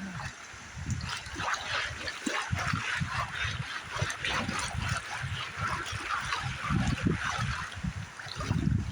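A pan of river gravel being shaken and swirled under water: the water sloshes in uneven pulses and the stones rattle against each other.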